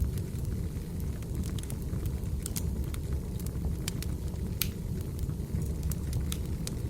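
Firewood burning: a steady low rumble with irregular sharp crackles and pops, and one louder snap about four and a half seconds in.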